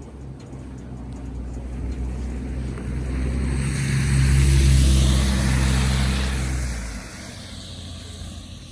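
A motor vehicle passing close by on a snowy street: a steady engine hum and tyre hiss grow louder, peak about halfway through, then drop away about seven seconds in.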